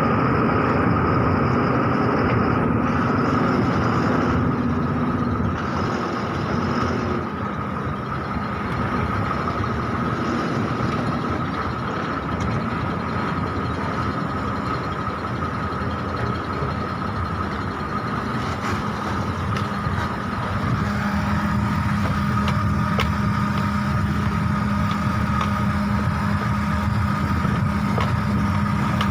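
Heavy truck engine running steadily, with a constant whine over a low rumble, a little quieter through the middle.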